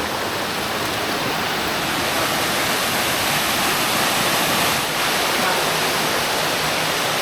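Mountain waterfall rushing, a steady, even noise of falling water.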